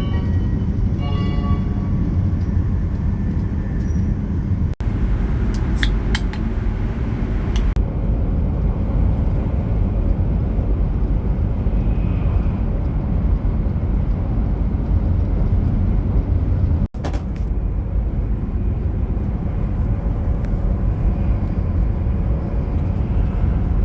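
Steady low rumble of a moving train heard from inside the carriage, broken by two sudden cuts, with a brief high-pitched squeal about six to seven seconds in.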